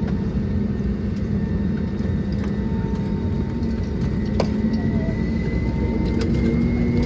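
Cabin noise of an Airbus A320neo with its CFM LEAP-1A engines running: a steady rumble with an engine hum and whine whose pitch rises slightly about five seconds in. A single sharp click comes about four seconds in.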